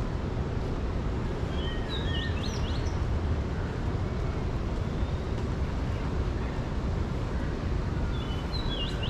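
A bird sings a short phrase of quick rising chirps, about two seconds in and again near the end, over a steady low background rumble.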